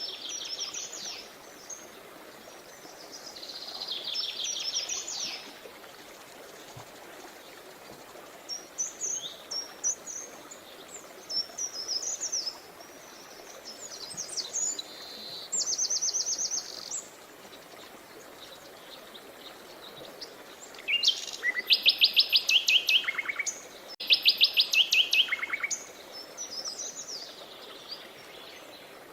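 Songbirds singing in short separate phrases, several of them fast trills of rapidly repeated notes, the loudest two trills coming about three-quarters of the way through. Behind them runs the steady rush of a river.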